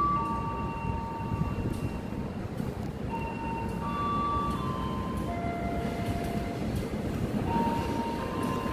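Low, steady rumble of an approaching diesel-locomotive-hauled train, still some distance off. Over it runs a string of steady high notes, each held about a second and changing pitch from one to the next.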